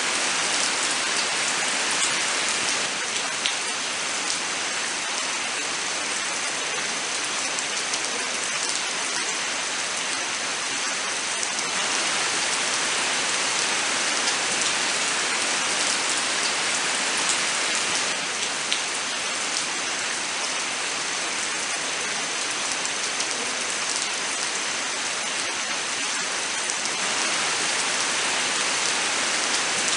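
Steady rain falling: a dense, even hiss with scattered sharper drop hits.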